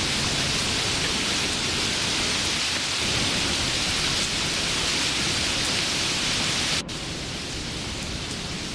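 Steady rain, a dense even hiss. About seven seconds in it cuts abruptly to a quieter, duller rain, as at a splice between two recordings.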